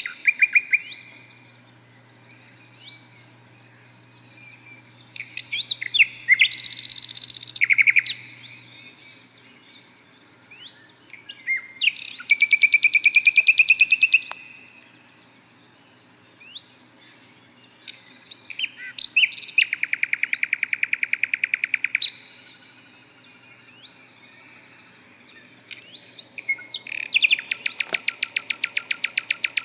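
Songbirds chirping and singing: scattered short chirps, a buzzy burst, and three rapid trills of two to three seconds each, about seven seconds apart.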